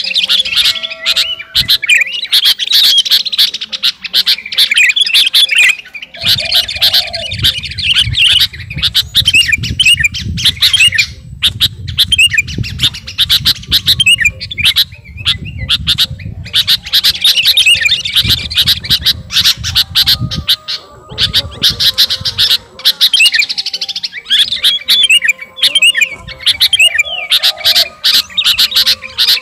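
Sooty-headed bulbul (kutilang) singing in rapid, chattering phrases with short pauses between them: the lively song of a bird in full voice, calling out to a rival.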